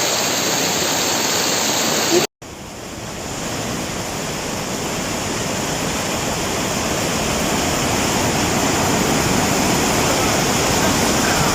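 Steady rushing of water, typical of floodwater pouring or torrential rain. It cuts out for a moment about two seconds in, then comes back and slowly grows louder.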